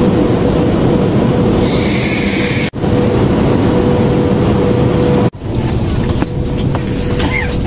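Steady noise of a high-speed train, with a constant low hum under it. It breaks off abruptly twice, about a third and two-thirds of the way through.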